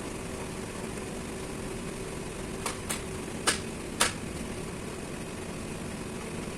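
Machinery running with a steady noise and a faint hum, broken by four sharp knocks in quick succession in the middle.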